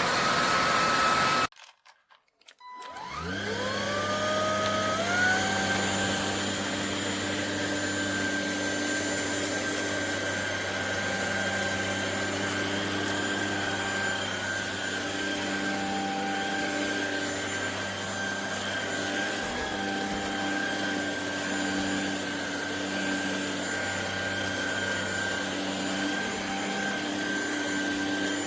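ElecKeys K10 cordless stick vacuum's motor running with a high whine, then cutting out about a second and a half in. It starts again a moment later, rising in two steps, and settles into a steady high whine.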